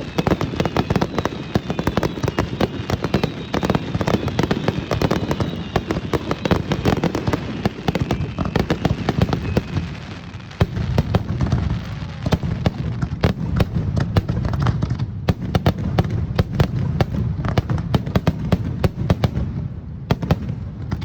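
Fireworks display: a dense, rapid barrage of shell bursts and crackling, many bangs a second. Falling whistles run through the first several seconds, and the barrage thins out near the end.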